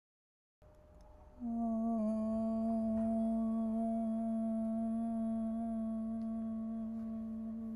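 A single voice humming one long, steady note, starting about a second and a half in and held without a break.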